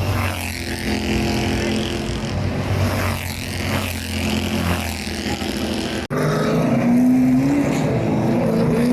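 Race car engines running as the cars lap the track, swelling and fading as they pass. About six seconds in the sound cuts abruptly to a steadier, louder engine drone.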